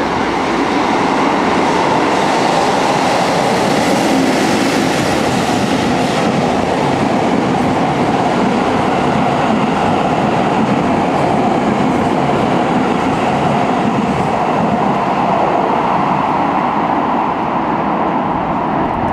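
An EF65 electric locomotive hauling a rake of Seibu 30000-series cars passes through the station. The wheels on the rails make a steady loud rumble with clickety-clack, easing a little near the end as the last car clears.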